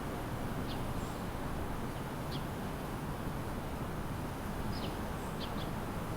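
Small birds giving a few short, high chirps, about five in all, each sliding downward, over a steady low rumble of city traffic.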